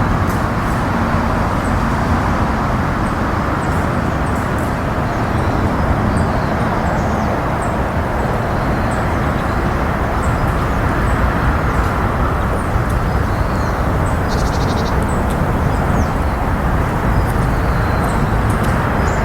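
Steady roar of distant road traffic, with faint, short high-pitched bird chirps scattered throughout.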